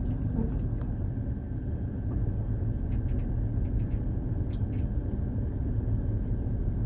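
Steady low rumble of a vehicle driving slowly, heard from inside it, with a few faint light clicks.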